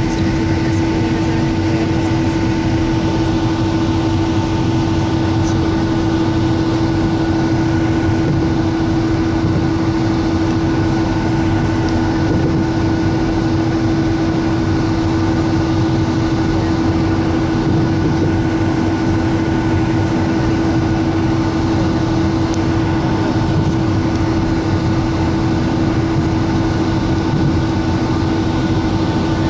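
Boeing 757-200 jet airliner running steadily before its takeoff roll: a constant hum with a few steady tones over a low rumble, holding the same pitch throughout.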